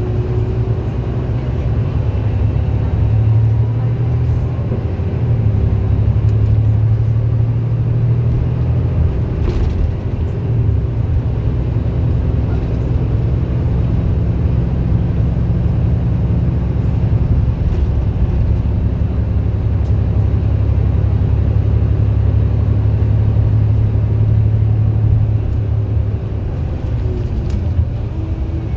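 MAN A91 bus engine running steadily under way, a low drone with a loud radiator fan sounding over it.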